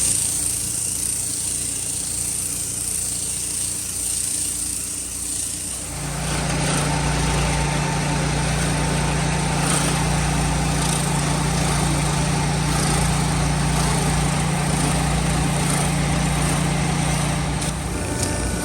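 Pressure washer's small engine running steadily. About six seconds in, its note deepens and a broad hiss of spraying water joins it, holding until near the end.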